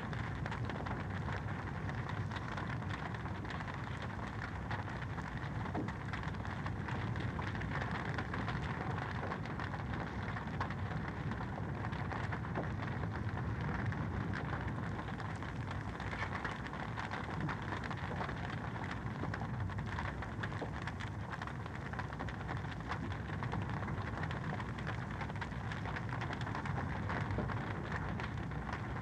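Wood fire crackling steadily in a fireplace: a dense run of small pops over an even hiss.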